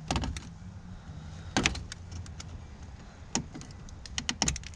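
Scattered sharp metal clicks and knocks from tools and a battery terminal clamp being handled: single clicks, then a quick run of them near the end, over a low steady hum.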